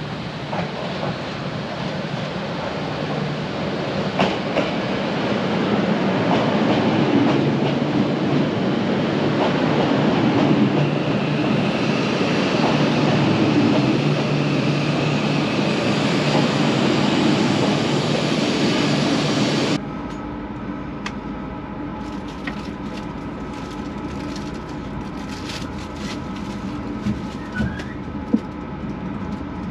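A train running on the rails: a rushing rumble that builds over the first few seconds and holds. About two-thirds of the way through it cuts off abruptly to a quieter steady train hum with a few faint clicks.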